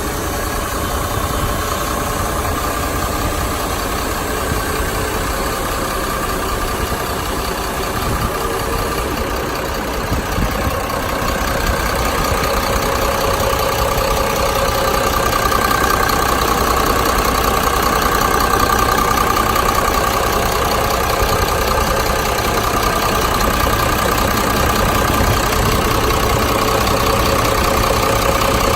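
Diesel engine of a Hyundai 5-ton cargo truck idling steadily, growing a little louder from about twelve seconds in.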